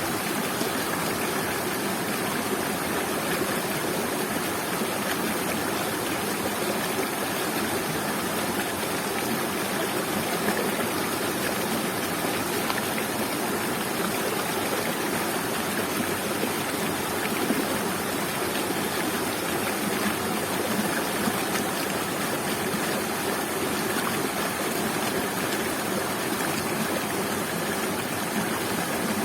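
Waterfall and stream water falling and rushing steadily, a continuous even splashing with no change over time.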